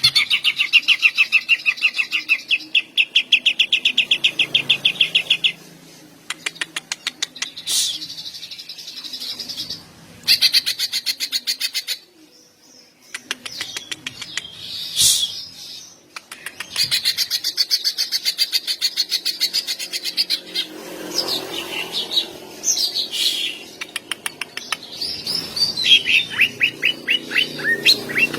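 Cucak ijo (green leafbird) singing hard: long, fast rattling trills of rapidly repeated notes, the 'tembakan' (shots) that bird keepers prize, in phrases broken by short pauses and varied chirps.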